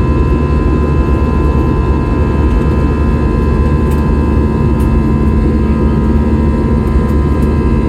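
Jet airliner's engines running steadily, heard from inside the cabin: a loud low rumble with a steady high whine over it.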